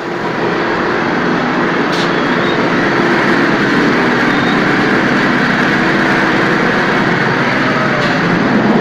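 Plastering machine running steadily: a motor hum under a rushing hiss, which comes up sharply at the start and then holds level.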